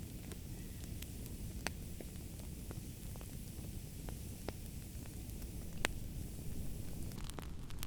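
Wood fire crackling, with scattered sharp pops over a steady low rumble of flames; one sharp pop about six seconds in, and the crackling turns denser near the end.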